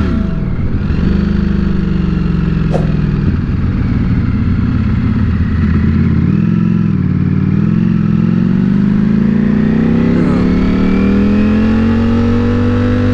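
Ducati Panigale V4 S's V4 engine running under way. Its pitch drops at the start as the bike slows, holds fairly steady, then rises smoothly over several seconds as it accelerates and levels off near the end.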